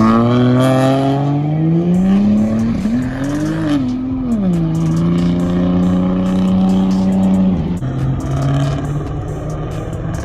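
A car engine revving hard as the car accelerates: the pitch climbs for about three seconds, wavers, drops, then holds steady for a few seconds before falling off near the end.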